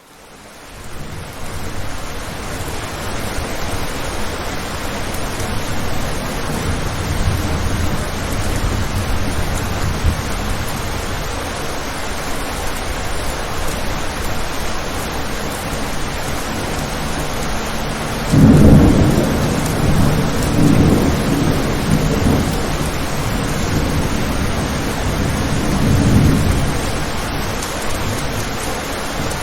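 Steady heavy rain, fading in at the start, with a roll of thunder about two-thirds of the way in: a sudden loud low crack that rumbles on in waves for several seconds.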